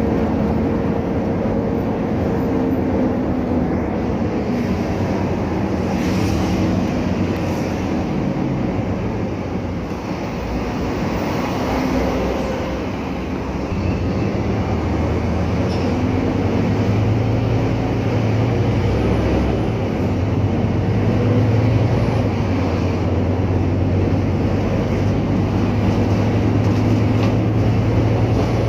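Scania K310UA articulated city bus under way: steady engine and road noise. The engine hum grows stronger and deeper from about fourteen seconds in, after a brief dip in loudness.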